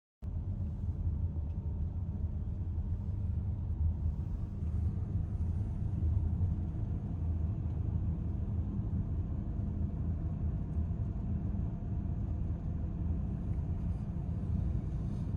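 Steady low rumble of a moving car's road and engine noise, as heard inside the cabin, cutting in and out abruptly.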